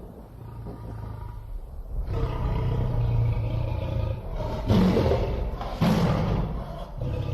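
A deep, rough roar-like drone over a low steady hum, growing louder about two seconds in, with two sudden loud swells near the middle.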